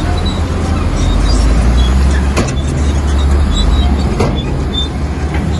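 Heavy diesel engine of earthmoving machinery running under load with a deep, steady rumble that settles lower and louder about a second in. Two sharp metallic clanks come about two seconds apart.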